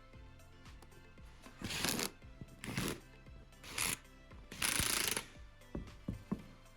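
Four short bursts of scraping, rustling noise a second apart, the last the longest, followed by a few light clicks, over quiet background music.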